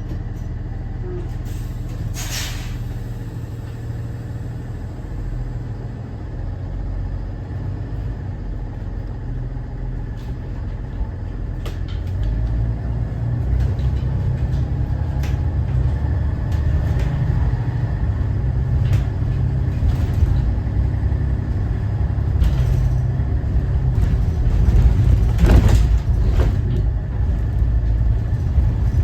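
Cummins ISB 6.7 inline-six diesel of a Thomas Saf-T-Liner C2 school bus running as the bus drives, a steady low rumble that grows louder about halfway through, with scattered rattles from the bus body. A short hiss comes shortly after the start and another near the end.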